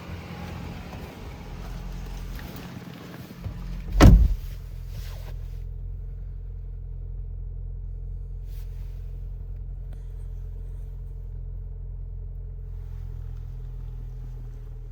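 Audi Q5's turbocharged 2.0-litre four-cylinder idling steadily after a cold start. A single loud thump comes about four seconds in.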